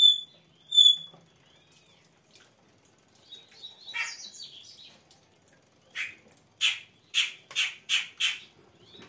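A bird calling: two clear, high whistled chirps at the start, a harsh raspy call about four seconds in, then a run of about six quick harsh notes near the end.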